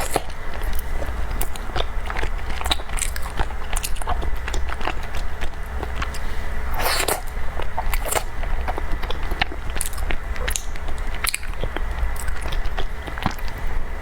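Close-miked eating sounds of an avocado tuanzi, a glutinous rice dumpling: wet chewing and mouth smacking with many small sharp clicks, and a longer, louder sound about seven seconds in.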